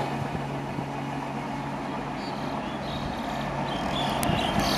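Passenger train receding after passing, its wheel clatter dying down to a steady, distant rumble with a faint low hum.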